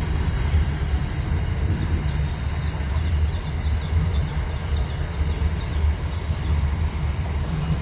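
Train passing with a steady low rumble, with a few faint high squeaks in the middle.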